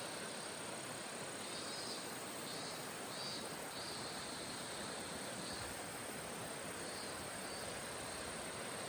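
Insects chirping in short bursts with a steady high insect trill, over a steady rushing background noise.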